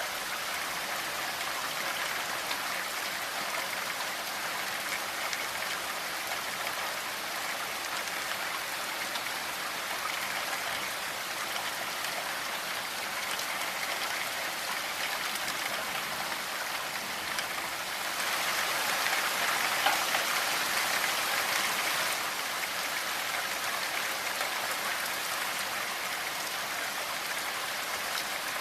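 Steady rainfall: a dense, even patter of raindrops, swelling a little louder for a few seconds about two-thirds of the way through.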